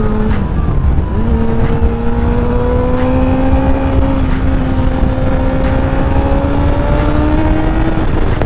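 Honda CBR1000RR inline-four engine under way, with heavy wind rumble on the microphone. The engine note cuts out briefly a fraction of a second in, as on a gear change, then comes back about a second in and climbs slowly as the bike gathers speed.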